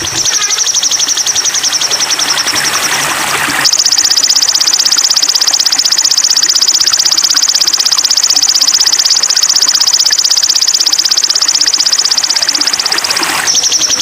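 Bird-training masteran recording of a rapid, high-pitched buzzy trill, unbroken throughout. It steps up in pitch and loudness about four seconds in and drops back near the end.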